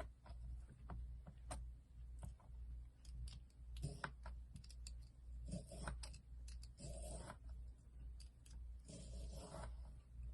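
Slime being handled by hand: sticky clicks and crackles, with a few short squishy bursts as it is pressed and pulled, over a steady low hum.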